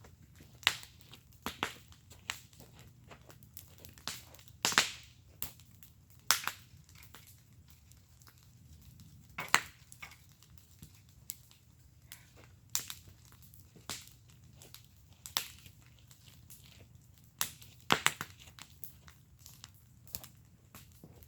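Wood fire in a fire pit crackling, with irregular sharp pops and snaps, a few much louder than the rest.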